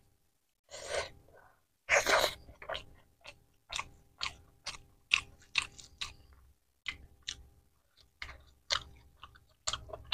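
Mouth chewing a handful of rice mixed with mashed egg curry: short, wet clicks, about two a second. About one and two seconds in come two short breathy bursts, the second the loudest sound of all.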